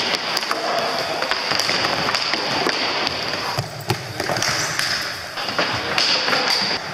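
Hockey game play: sticks clacking and scattered knocks and thuds, many short sharp hits over a steady hiss of arena noise.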